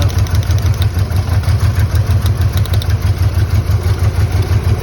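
1997 Ford Ranger 2.3 L twin-plug four-cylinder engine idling roughly, with a regular throb about four or five times a second: it is misfiring badly, running on only two or three cylinders.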